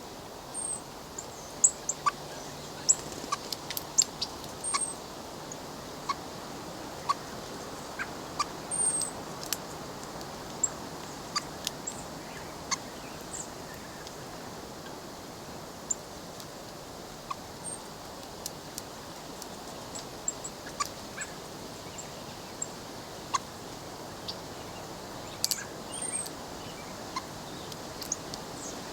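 Birds feeding at a plastic window bird feeder: irregular sharp taps and clicks of beaks pecking at sunflower seeds, with a few short high chip notes, over a steady outdoor hiss.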